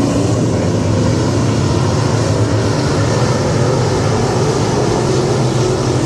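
Dirt-track modified race car engines running at speed, a loud steady drone.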